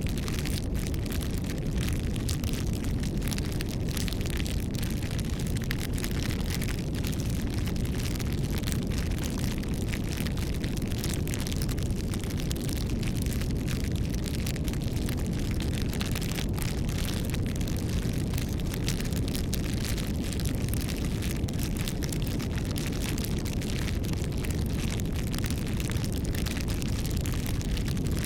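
Wood fire burning with a steady low rush of flame and continual crackling and popping of the burning wood.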